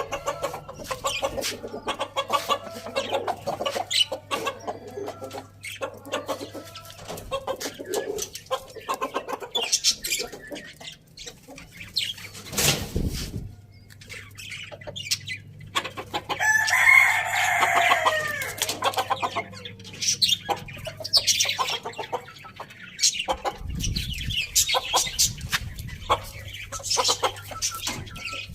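Chickens clucking amid many short taps, with one rooster crow lasting about two seconds about two-thirds of the way through.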